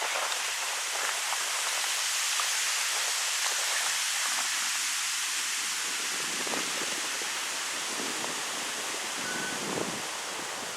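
Wind blowing through birch trees, a steady hiss of rustling leaves, with deeper gusts building in the second half.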